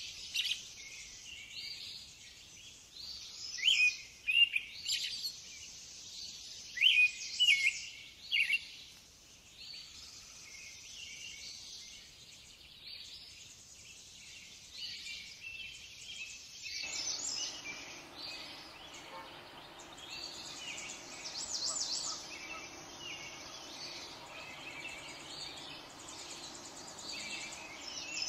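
Small songbirds chirping and singing in short repeated phrases, loudest and most frequent in the first nine seconds and softer after. About seventeen seconds in, a steady low background hiss comes in under the birdsong.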